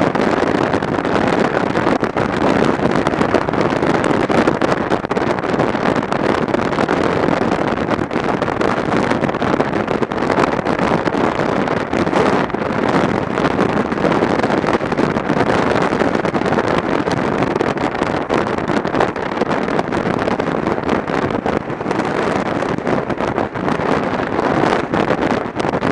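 Wind rushing over a camera microphone on a moving motorcycle, mixed with engine and road noise, steady and loud throughout.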